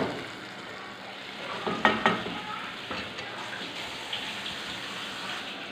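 Biryani spice paste frying and sizzling steadily in oil in an enamel pot, stirred with a wooden spatula. There are a couple of sharp knocks about two seconds in.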